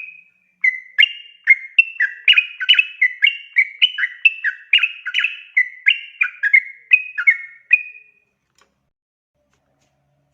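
Yellow-vented bulbul (trucukan) singing a long rapid run of bubbly notes that flip between two pitches, about three a second, stopping about eight seconds in.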